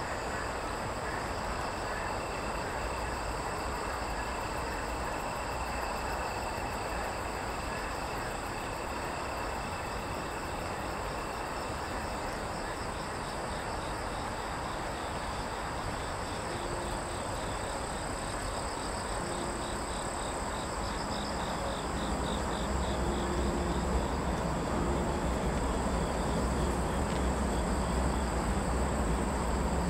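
Rain falling in a steady hiss, with insects trilling steadily at several high pitches, some of the trills pulsing for a while midway. A low rumble builds about two-thirds of the way through.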